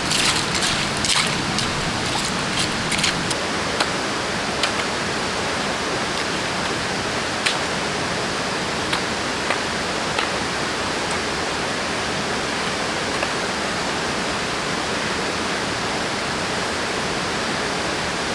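Steady rush of flowing water from a small jungle stream. A cluster of small clicks and knocks comes in the first few seconds, then a few sparse ticks.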